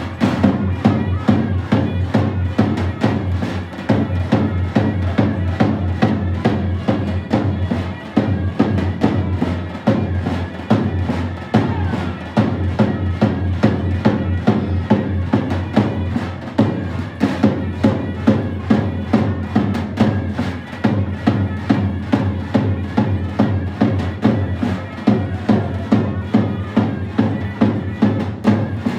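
Sivas folk dance music with a steady drum beat, about two beats a second, under a continuous melody.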